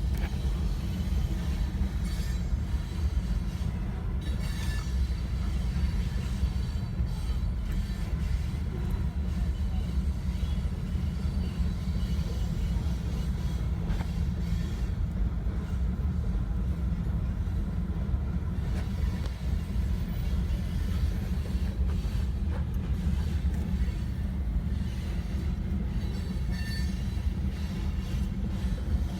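Train rolling past with a steady low rumble of wheels on rail, and a few brief, faint wheel squeals.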